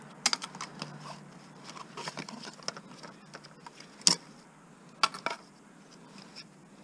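Scattered metallic clinks and knocks from handling the parts of an over-the-range microwave being dismantled, with two sharper knocks about four and five seconds in.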